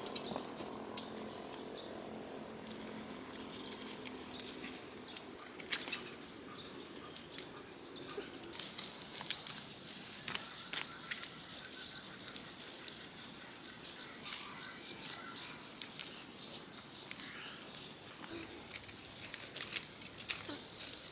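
A steady, high-pitched insect drone with birds chirping over it in many short, falling notes. The drone gets louder about eight and a half seconds in.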